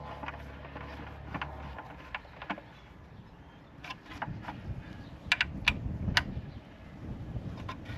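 Workshop handling sounds: a steady low hum that stops about two seconds in, then scattered clicks and knocks of tools and parts being handled.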